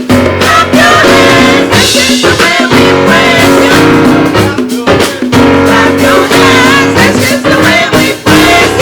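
Live church worship music: a band with guitar and drums playing, with singing.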